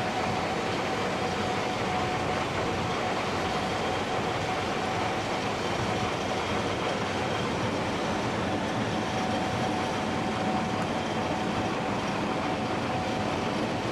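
Gleaner S67 combine running steadily while harvesting soybeans: a constant mechanical din with a thin steady whine over it.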